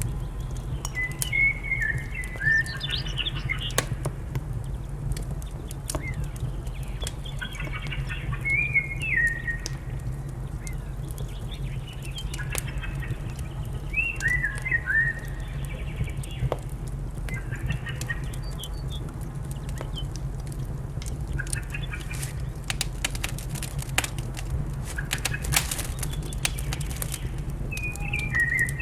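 Birds chirping in short, quick phrases every few seconds, over the sharp crackles and pops of a wood fire and a steady low rumble.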